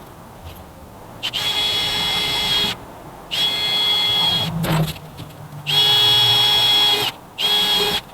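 Electric drill running in four short bursts, each a steady whine of the same pitch that starts and stops sharply.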